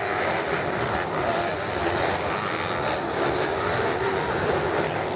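Motocross motorcycle engines running on the track, a continuous engine drone whose pitch wavers up and down with the throttle.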